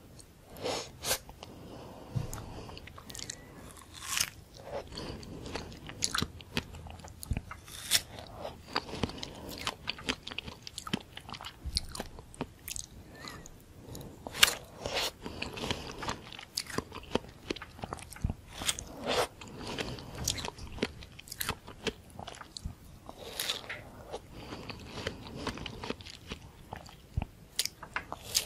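Close-miked biting and chewing of a white-fleshed dragon fruit slice topped with whipped cream: wet mouth sounds with many irregular sharp clicks and smacks.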